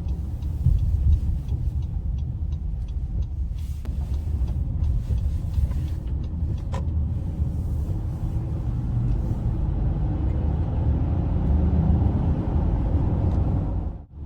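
2021 Honda Ridgeline's 3.5-litre V6 and tyre rumble while being driven, heard from inside the cab as a steady low drone with a few faint clicks. The sound drops out briefly near the end.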